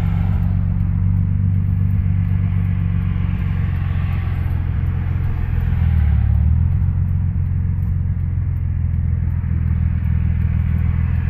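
Nissan 300ZX Twin Turbo's V6 running through a custom 2.5-inch turbo-back exhaust with Magnaflow mufflers while driving: a steady, low, smooth exhaust drone, with a brief change in engine note about six seconds in.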